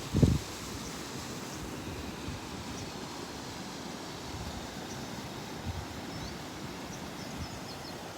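Outdoor park ambience: a steady low wind rumble on the microphone, with a brief low thump just after the start and a few faint, short high bird chirps in the second half.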